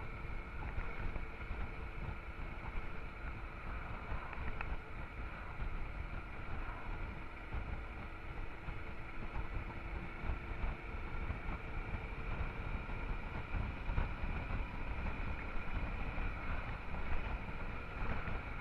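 Honda Transalp XL650's V-twin engine running at a steady road speed under a low, constant rush of riding wind on the microphone.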